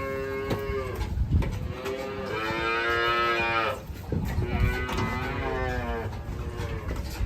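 Cattle mooing: several long, drawn-out moos one after another, the loudest a couple of seconds in.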